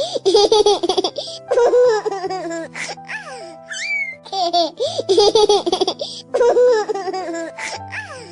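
Baby giggling and laughing in short bursts, the same laughing clip heard twice, over soft background music with held notes.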